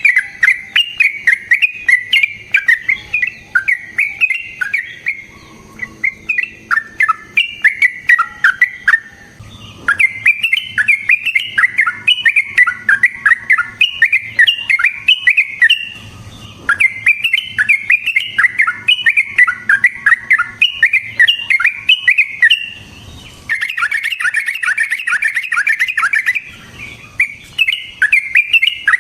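Yellow-vented bulbul (trucukan) singing in long runs of rapid, bubbly chattering notes, each run lasting several seconds and broken by brief pauses.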